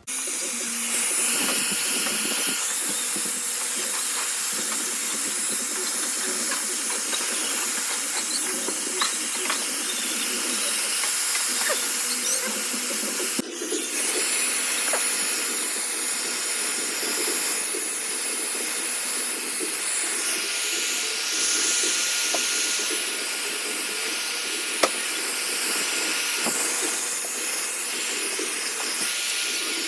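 Handheld hair dryer running steadily: an even rushing hiss of blown air with a thin steady whine.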